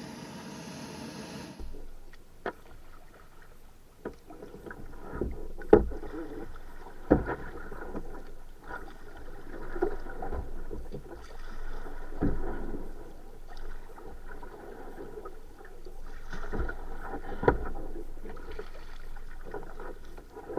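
Kayak paddling: paddle blades dipping in the water in a slow, uneven rhythm, with several sharp knocks, the loudest about six and seven seconds in.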